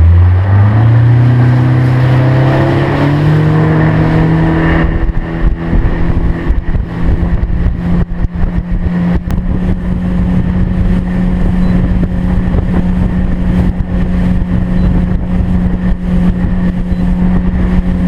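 Boat motor accelerating away, its pitch rising over the first four or five seconds, then running steadily at cruising speed.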